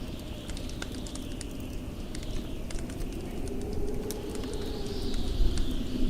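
Wood fire crackling with frequent sharp pops and snaps, over a blizzard's howling wind with a low rumble; the wind's howl swells and rises in pitch about halfway through.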